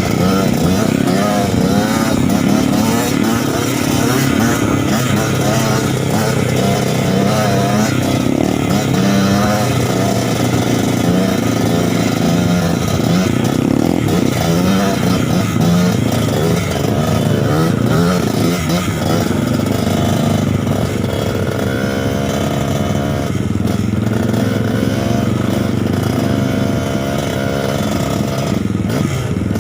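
Trail motorcycle engine running under load, its pitch rising and falling over and over as the throttle is opened and eased off.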